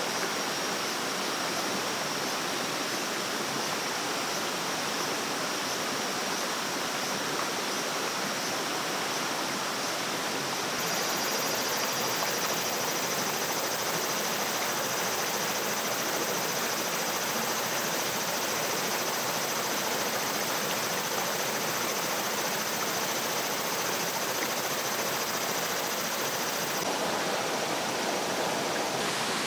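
Mountain stream running: a steady, full wash of flowing water, with a faint, thin high tone held steady above it. The water sound shifts slightly in level about a third of the way in and again near the end.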